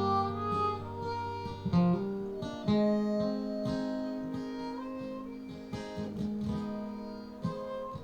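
Acoustic guitars playing the instrumental closing bars of a slow country ballad, picked notes over held chords, getting quieter and fading toward the end.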